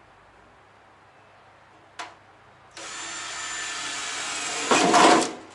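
Electric drill boring a hole, starting under three seconds in, running steadily and getting louder just before it stops near the end; a single sharp click comes about two seconds in. The drill is putting in a series of small holes to mark out the circle for a heater vent hole.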